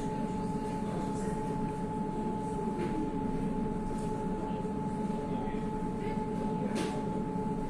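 Steady running noise of an electric river boat under way, with a constant high whine over an even hum.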